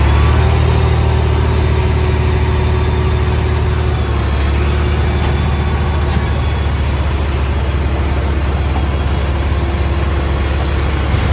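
Heavy diesel engine of earthmoving machinery running steadily, a loud low drone with no change in speed.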